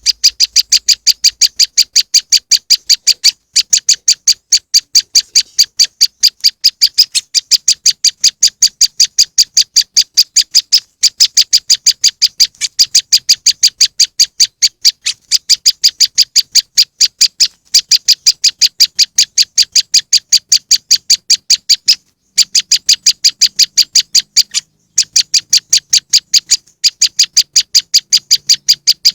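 Prenjak lumut (moss wren) call played as a bird lure: a fast, even run of short, high, sharp chips, about five a second, in long bursts broken by brief pauses.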